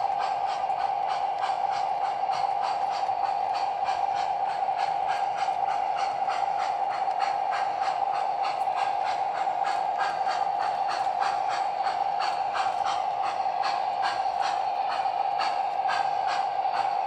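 Sound-equipped model steam locomotive running steadily, its chuffs coming about three a second over a constant high whine.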